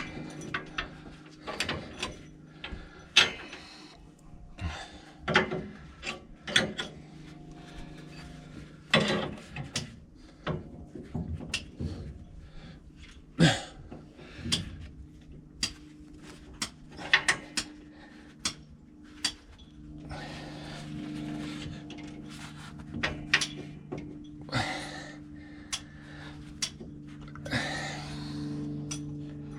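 Scattered metal clanks, clicks and knocks of hand tools and parts being worked on farm machinery, over a steady low hum.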